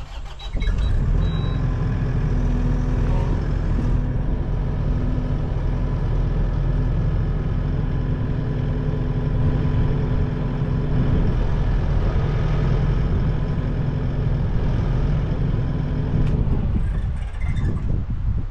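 A heavy machine runs steadily with a held hum and whine. It comes in suddenly about half a second in and stops shortly before the end.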